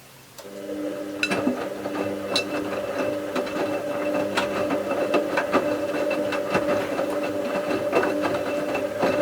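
Bauknecht WA 7778 W washing machine turning its drum in the wash cycle. The motor hums steadily for about nine seconds, starting about half a second in and stopping near the end, with irregular knocks from the towels tumbling inside.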